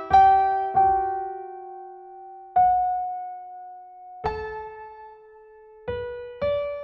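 Background music: slow, sparse piano chords, each struck and left to ring and fade, with a long held chord in the middle.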